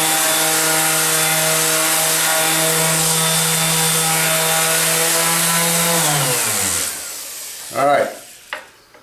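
Bosch orbital palm sander running with 80-grit paper on walnut: a steady motor whine over sanding hiss. About six seconds in it is switched off, and the pitch falls as it spins down to a stop.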